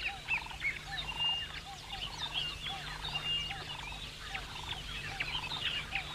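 Background chorus of many birds chirping in short, high calls, with a lower call repeated about twice a second over a faint steady low hum.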